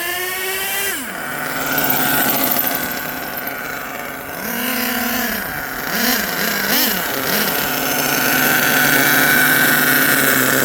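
Twin LRP .32 big-block two-stroke nitro engines of an HPI Savage XL RC monster truck revving up, dropping back to idle about a second in, then four short throttle blips before they run on steadily.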